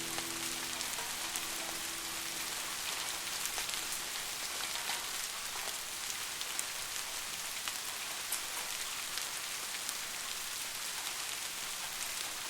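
Steady rain falling: a dense, even patter with scattered sharper drop ticks. A held note of the slowed piano dies away in the first second or so.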